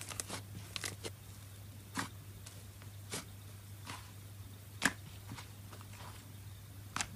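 A few faint, sharp clicks at irregular intervals, about seven in all, the strongest a little before five seconds in, over a steady low hum.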